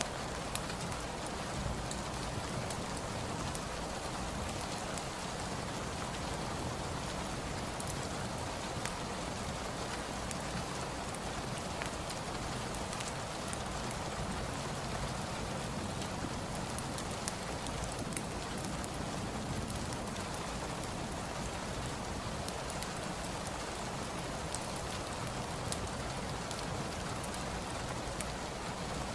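Steady rain falling, an even hiss, with scattered sharp crackles from a fireplace fire.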